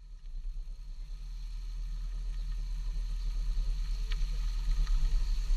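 BMW E34 drift car's engine idling, a steady low rumble that fades in and grows gradually louder, with a couple of faint clicks about four and five seconds in.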